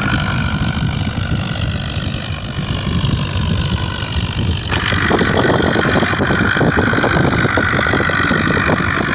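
A motor vehicle's engine running steadily, with the sound changing abruptly about halfway through.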